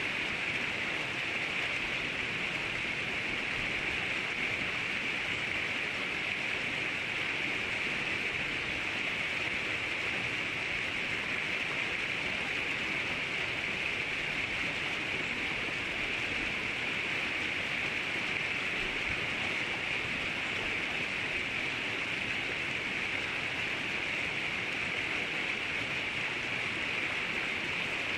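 Steady rushing of river water, an even noise that does not change, with no birdsong standing out.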